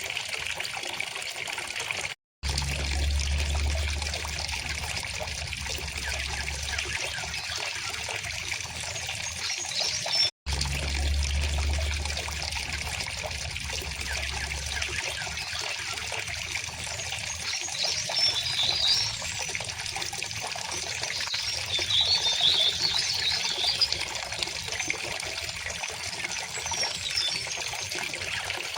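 A river or stream flowing steadily over stones, with birds chirping now and then in the higher register. The sound drops out completely twice, briefly, each time followed by a few seconds of low rumble.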